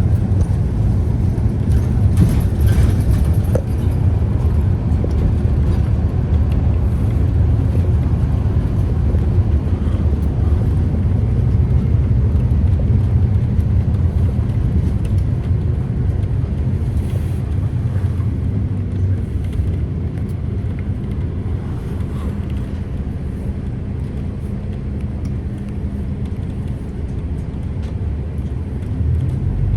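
Scania CK320UB Citywide city bus's diesel engine running with a steady low rumble as the bus drives, easing off and getting a little quieter over the second half.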